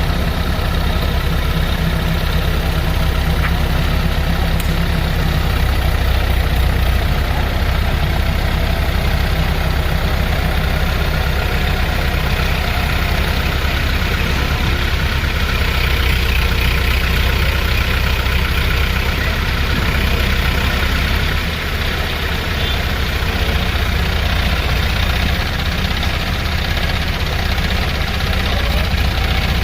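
Diesel engine of a JCB excavator running steadily at idle.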